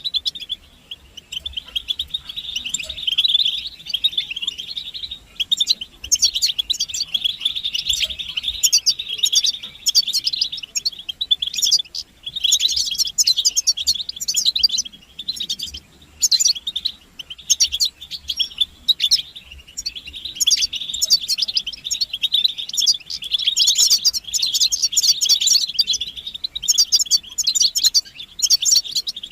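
European goldfinches twittering and singing together: a dense run of fast, high chattering notes with only short pauses. These are the goldfinch's mating and readiness calls.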